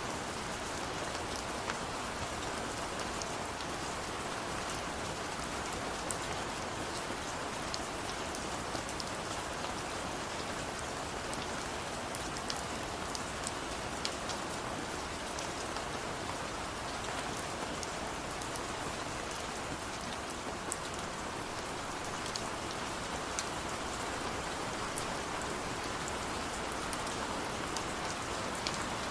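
Steady rain falling, a constant hiss of rainfall with scattered sharp drip and drop ticks over it.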